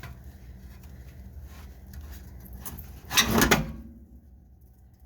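A short, rattling clatter of knocks about three seconds in, over a low steady background.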